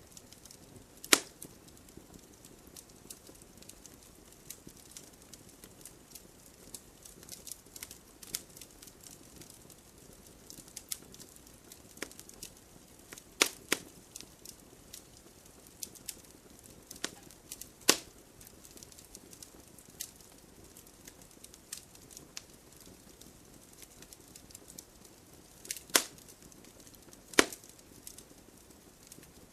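Wood campfire crackling: frequent small sharp snaps over a faint low hiss, with about five much louder pops spread through, two of them close together near the end.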